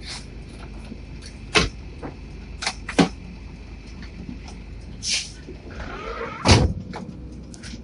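A handful of sharp knocks and clacks, the loudest near the end, over a steady low rumble.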